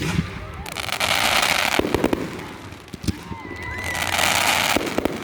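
Fireworks going off: a sharp bang at the start, more bangs around 2 and 3 seconds in, and two stretches of about a second of dense hissing, about 1 and 4 seconds in.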